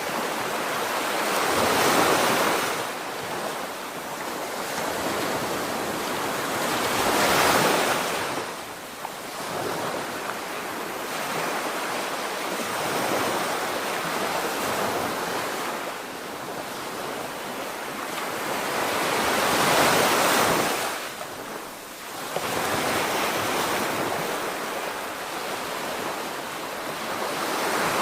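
Sea surf: waves rolling in and breaking on the beach, the noise swelling and falling back every several seconds. The biggest breaks come about two seconds in, near eight seconds and about twenty seconds in.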